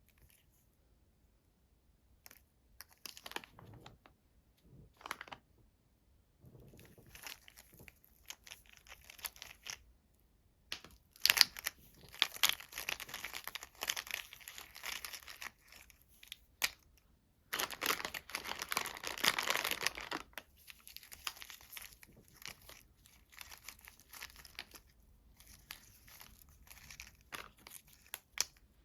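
Close-up crinkling and tearing of a candy wrapper, in irregular crackly bursts, with two longer, louder stretches of crumpling partway through.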